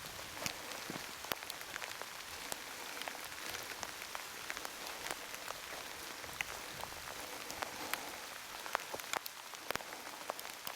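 Heavy rain falling: a steady hiss with many sharp, irregular drop ticks scattered through it.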